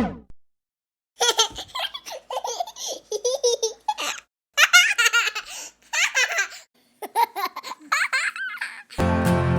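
A baby laughing and giggling in quick high-pitched bursts with short pauses. Acoustic guitar music starts just before the end.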